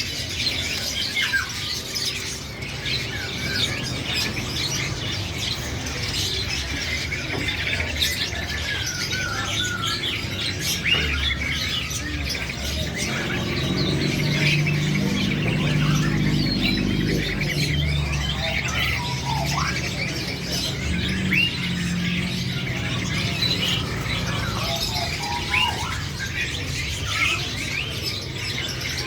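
Young crow calling with many short chirps and squawks, while a low steady hum rises around the middle.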